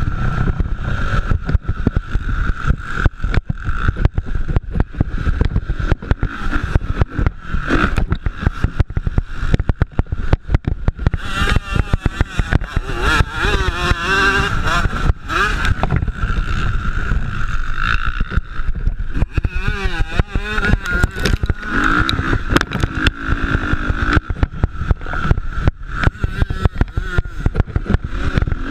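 Motocross dirt bikes running and revving on the track over a constant choppy low rumble. About halfway through, a close bike's engine note rises and falls several times.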